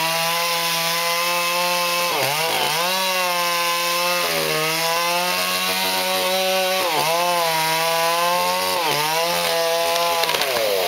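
Chainsaw running at full throttle while cutting wood, a steady high engine note that dips briefly in pitch several times as the chain loads up in the cut and then climbs back.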